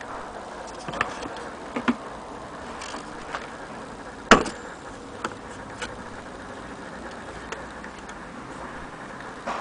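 Scattered, unevenly spaced light clicks and small knocks from an antique Junghans mantel clock, the loudest about four seconds in, over a steady low hiss; not an even ticking beat.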